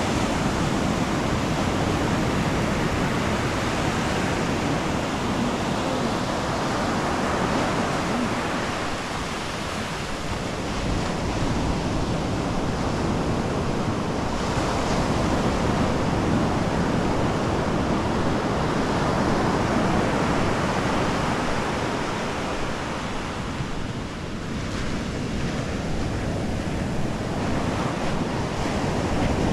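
Ocean surf washing continuously onto the beach, the roar swelling and easing as waves break and run up, with some wind rumbling on the microphone.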